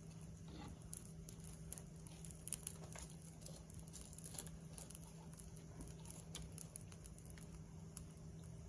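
Campfire wood crackling with irregular small pops, a few louder ones about two and a half and four and a half seconds in.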